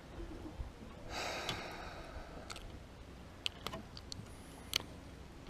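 A person's long, heavy breath out, followed by a few short, sharp clicks.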